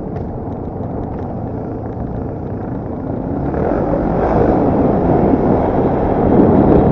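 Dirt bike engine running under riding load, mixed with rumbling wind noise on the microphone, getting louder from about halfway through as the bike is pushed harder.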